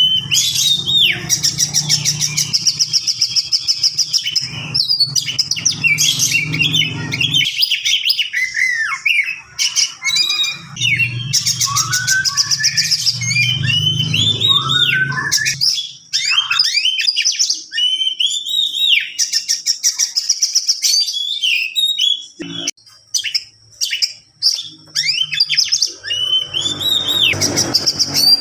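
Oriental magpie-robin (kacer) singing a long, continuous, varied song: fast rattling trills mixed with whistled slurs that rise and fall, with a few short breaks about three-quarters of the way through. A low hum runs underneath at times.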